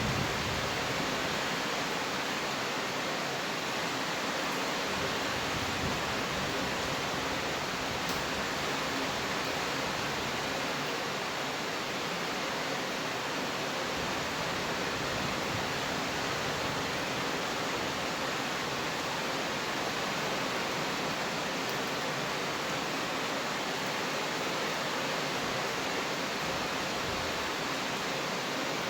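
Steady rain falling, an even hiss with no single drops standing out; the tail of a low thunder rumble dies away in the first moment.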